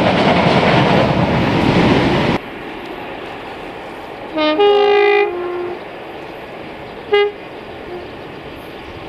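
A passing train rumbling and clattering over the rails, cut off abruptly about two seconds in. Then a locomotive's two-tone horn sounds once, low note then high, for about a second and a half, followed near the end by a short single toot.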